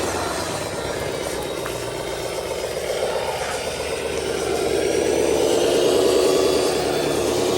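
Heavy truck's diesel engine running under load, its revs rising and growing louder about halfway through, then holding.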